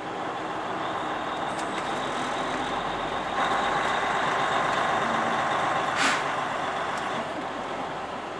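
Semi truck running, a steady drone that gets a little louder about three and a half seconds in, with one brief sharp burst about six seconds in.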